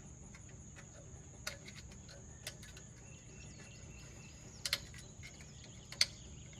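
Crickets chirring in a steady, high, even tone, with a few sharp clicks over it: one about a second and a half in, one about two and a half seconds in, a close pair near five seconds, and the loudest about six seconds in.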